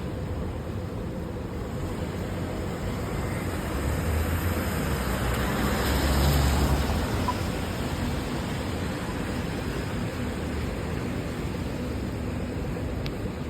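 A car passes on a wet road, swelling and fading about midway, its tyres hissing over a steady wash of rain and city traffic.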